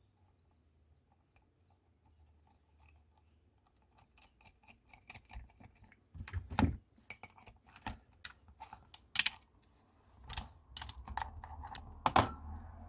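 Near silence for the first few seconds, then a run of sharp metal clicks and clinks, some with a brief high ring, as the parts of a small cast-iron table vice are fitted back together and handled.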